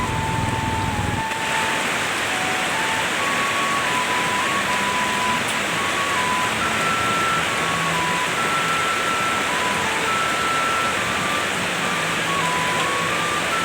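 Heavy rain falling as a steady hiss, with a slow melody of plain held notes playing over it. About a second in, the low rumble under the rain drops away and the hiss turns brighter.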